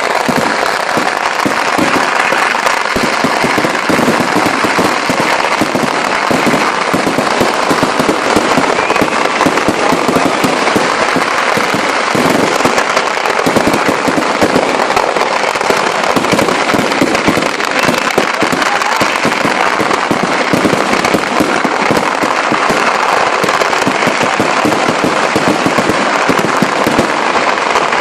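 Fireworks barrage of low-intensity firecrackers going off in rapid, overlapping succession: a dense, unbroken crackle of bangs with no pause.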